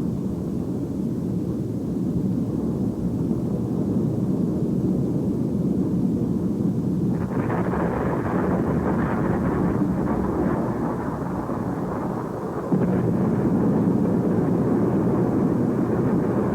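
Volcanic eruption rumbling: a deep, steady, noisy rumble that grows fuller and brighter about seven seconds in and steps up louder again near the end.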